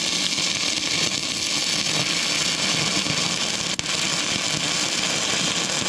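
Stick-welding arc from an inverter arc welder burning a 6011 rod on thin, rusty, painted sheet metal: a steady, loud crackling hiss, with a brief dip a little before the four-second mark.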